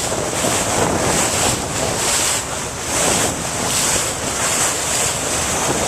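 Wind buffeting the microphone over the rush and splash of water from a motorboat under way, a loud, steady, gusting noise.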